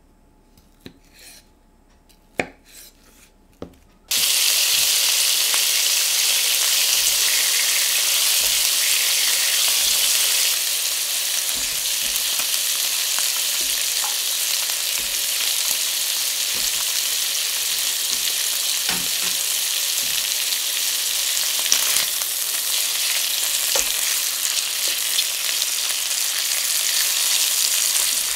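A few light taps of a knife slicing cooked new potatoes on a wooden chopping board, then, cutting in suddenly about four seconds in, steady loud sizzling of duck breasts frying skin-down in oil with halved new potatoes in a stainless steel sauté pan, with a few small clicks of tongs near the end.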